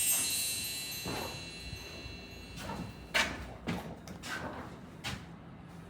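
High chime-like ringing tones fading away over the first couple of seconds, followed by a handful of scattered sharp knocks or clicks.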